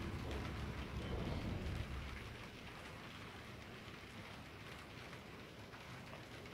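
Steady heavy rain falling on surfaces, with a low rumble that dies away about two seconds in.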